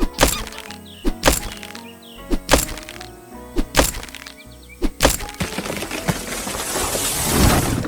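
Cartoon background music with five loud cracking impacts, about one every second and a quarter, followed by a rising rushing hiss that swells near the end.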